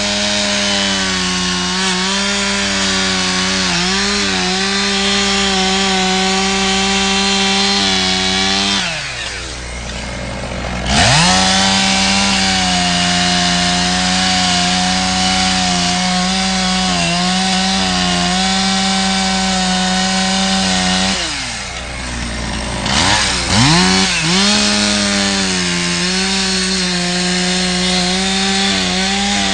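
Two-stroke chainsaw at high throttle cutting a ridge cut in a roof. Its engine eases off about nine seconds in and revs back up a couple of seconds later. It eases off again past the twenty-second mark and is blipped up a few times before running steady again.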